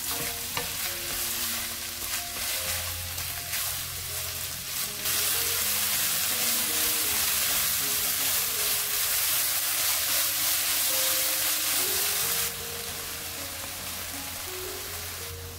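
Seaweed stems, carrot and onion sizzling in hot oil as they are stir-fried over medium heat, with the scrape and rustle of stirring in the first few seconds. The sizzle grows clearly louder about five seconds in and drops back down about twelve seconds in.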